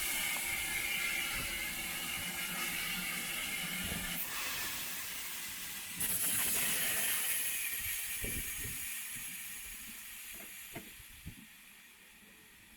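Steam locomotive blowing off steam: a loud, steady hiss that shifts abruptly about four and six seconds in, then fades away over the last few seconds.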